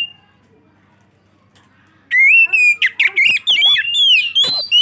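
Oriental magpie-robin (kacer) singing. A whistled note ends at the start, and after a pause of about two seconds a loud, rapid run of whistled, sliding notes breaks out, mixed with sharp clicking notes.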